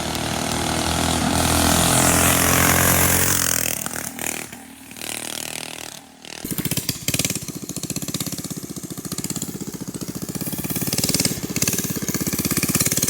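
A minibike engine running hard as the bike speeds past, loud for the first few seconds and fading away about four seconds in. From about six seconds a small engine idles close by with a rapid, even putter.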